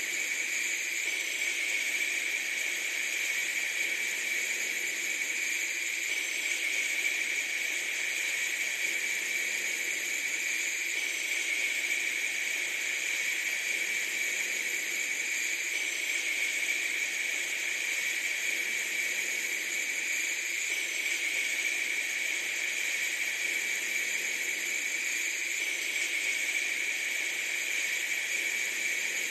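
Steady, unbroken hiss, strongest in a high band, with no pauses or changes in level. Faint details in the highs repeat about every five seconds.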